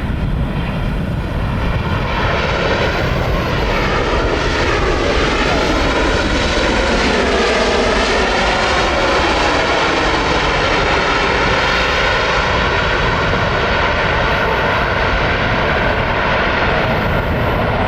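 Airliner engines passing close by, a loud steady rush with a sweeping, wavering pitch pattern in the middle as the aircraft goes past.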